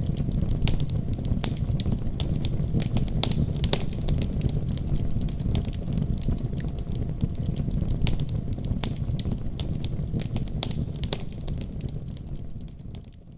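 Fire burning in a fireplace: a steady low rumble of flames with frequent sharp crackles and pops. It fades out near the end.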